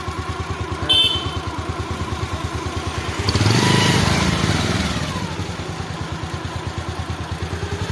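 Small engine running steadily with a fast, even beat. A short high beep comes about a second in, and the engine noise swells louder for a couple of seconds around the middle.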